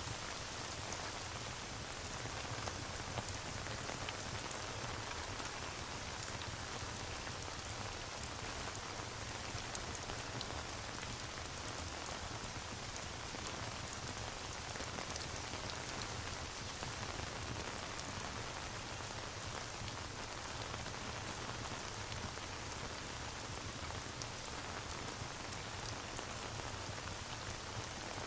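Steady rain ambience, an even hiss with scattered faint ticks of drops, unchanging throughout.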